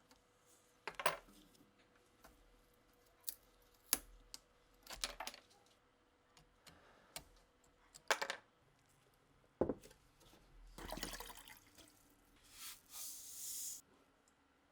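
Small hard objects handled on a workbench: scattered clicks and clinks, a rustle about ten seconds in, then a short hiss near the end.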